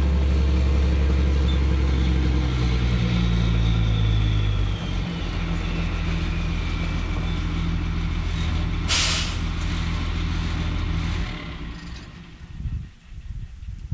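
Engine running steadily, dropping to a lower speed about five seconds in. A short sharp hiss comes near the nine-second mark, and the engine shuts off about eleven seconds in.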